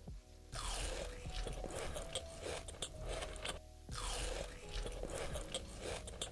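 Crunchy food being bitten and chewed close to the microphone, in two long runs of loud crackling crunches with a short pause between them.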